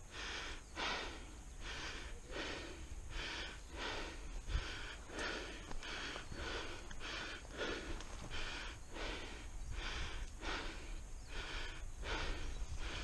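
A person breathing hard, a steady, even run of quick in-and-out breaths.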